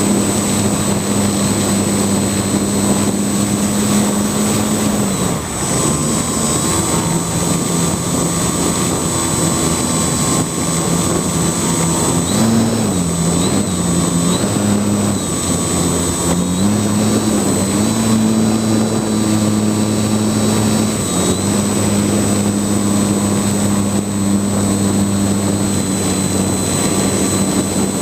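A small UAV's motors and propellers running: a steady hum that drops, dips and rises in pitch several times as the throttle changes, over a constant rush of wind noise.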